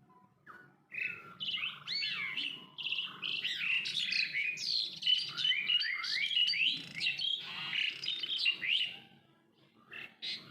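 A small bird singing a long run of quick chirps and whistled notes that sweep up and down, stopping about nine seconds in, then one short call near the end.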